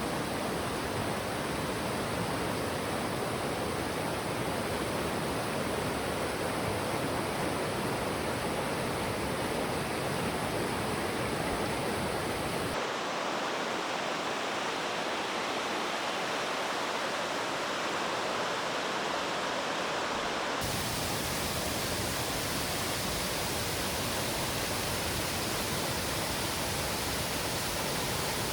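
Steady rush of a mountain stream's rapids, an even hiss of flowing water. From about 13 to 21 seconds in it turns mellower, with less hiss and rumble, as if heard from a different spot along the water.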